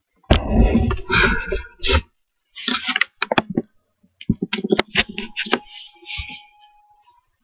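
A bathroom scale being handled and set down on the floor: a rough rubbing and bumping at first, then a string of sharp clicks and knocks.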